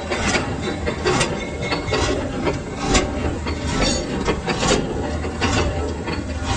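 Lathe running with a steady low hum under irregular scraping and sharp metallic clicks of metal being worked.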